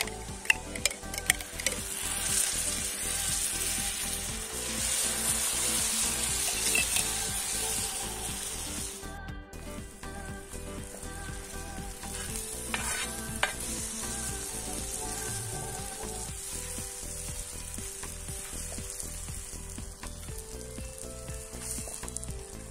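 Grated beetroot and tomato paste sizzling as they fry in a wide black pan, stirred with a spoon. A few sharp clicks come in the first second or so. The sizzle is loudest for the first several seconds, then goes on more softly.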